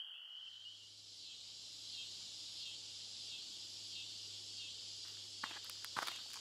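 Faint outdoor insect chorus, a steady high pulsing shimmer like crickets, over a low steady hum. About five seconds in, a few sharp footsteps begin.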